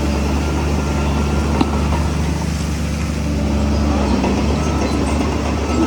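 Heavy diesel engine running steadily under load, with one sharp knock about a second and a half in.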